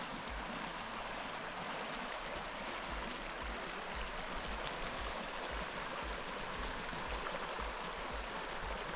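Flowing water rushing steadily, like a stream or creek, with brief low thuds now and then.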